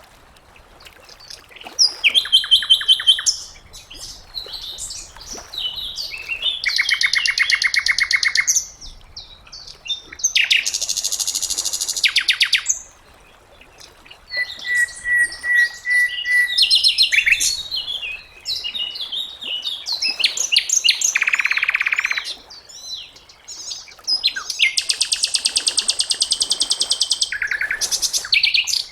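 A sikatan londo (flycatcher) singing a varied run of separate phrases, mostly fast rattling trills and buzzy chatters. About halfway through there is a thin steady whistle, and short pauses fall between the phrases.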